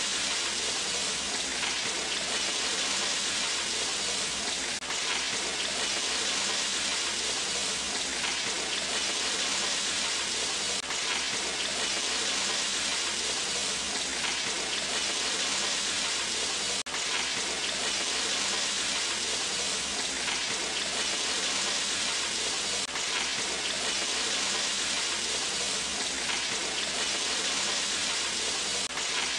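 Flour-coated chicken breast pieces sizzling in hot oil in a non-stick frying pan, a steady, even sizzle.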